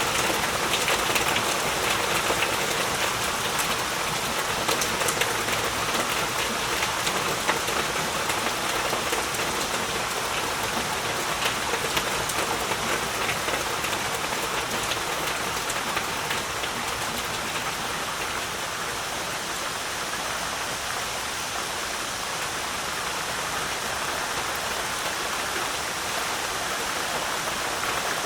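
Heavy rain falling steadily in a dense hiss, with sharp ticks of single drops striking close by that come thickest in the first half and thin out later.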